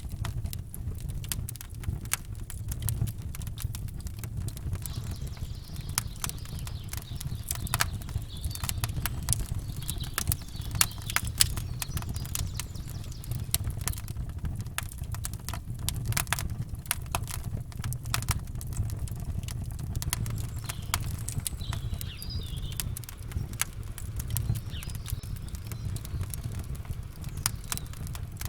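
Campfire burning, wood crackling with frequent irregular sharp pops over a steady low rumble. A faint bird call comes in about three-quarters of the way through.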